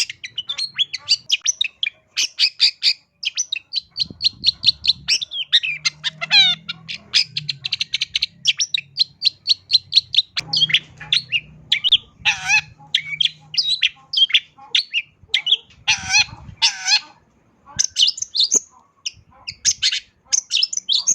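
Long-tailed shrike (cendet) singing a rapid, varied song of short chattering notes, trills and harsher calls, full of mimicked calls of other birds.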